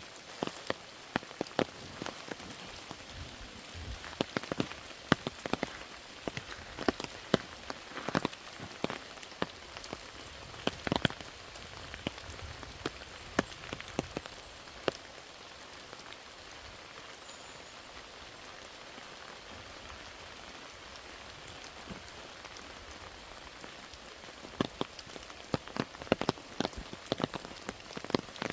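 Rain falling: a steady hiss with many sharp, close drops tapping on a surface. The drops grow sparse for several seconds past the middle, then come thick again near the end.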